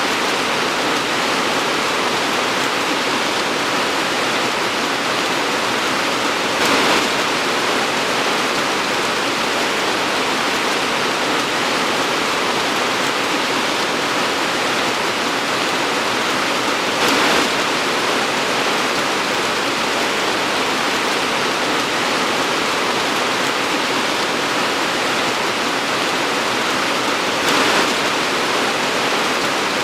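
Torrential rain pouring steadily in a dense, even hiss, with three brief louder swells about ten seconds apart.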